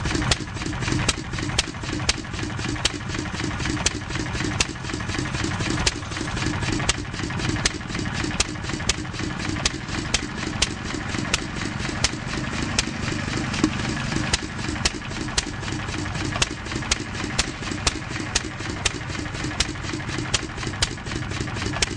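McCormick-Deering 1-1/2 HP Model M single-cylinder gas engine running with an uneven beat of exhaust pops that vary in strength. It misfires, not firing every cycle even though the exhaust valve closes each time, which the owner suspects is a poor fuel mixture or a weak magneto.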